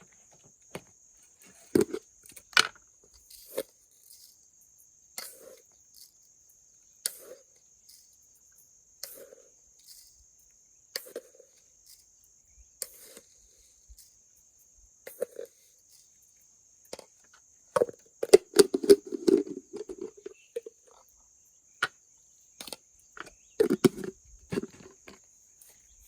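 A steady, high-pitched insect trill runs throughout, with short knocks and rustles every second or two from handling or work. The knocks come thicker and louder in two bursts, one about two-thirds of the way in and one near the end.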